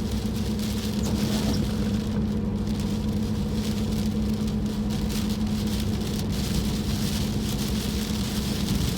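Inside a moving car in the rain: the steady hum of the engine and road, with the hiss of rain and wet tyres on the road swelling and easing.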